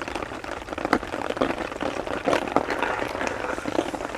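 Heavy rain pattering densely on a tarp, a steady mass of irregular drops.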